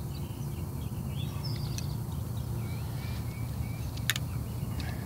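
Small birds chirping over a steady low outdoor rumble, with one sharp click about four seconds in.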